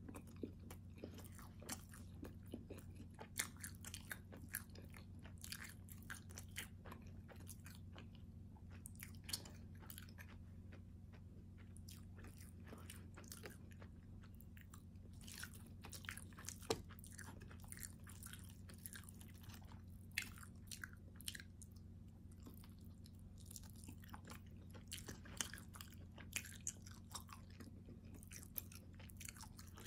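Close-up chewing and biting of a cheesy meat lover's calzone: soft wet mouth sounds with scattered small clicks and smacks, now and then a little crunch of crust, over a steady low hum.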